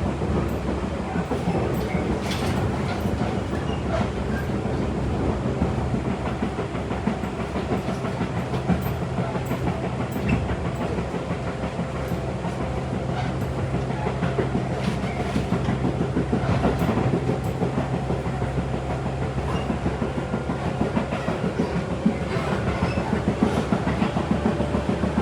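Tobu 8000-series electric train running at speed: a steady rolling rumble and motor hum, with the clickety-clack of wheels passing over rail joints.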